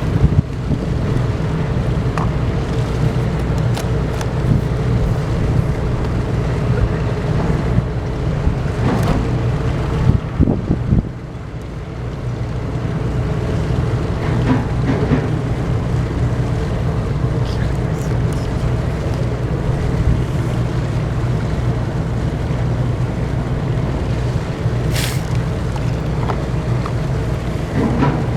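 Car ferry's diesel engines running with a steady low drone as the ship gets under way out of port, with wind buffeting the microphone. The level dips briefly about a third of the way in.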